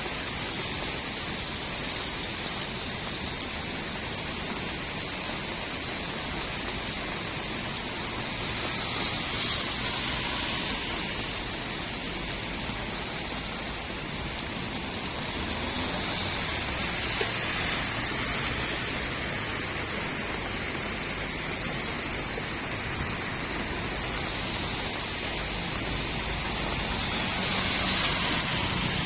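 Steady rain falling on a street, a constant hiss, with water running and gurgling; the hiss swells a little louder a few times, most strongly near the end.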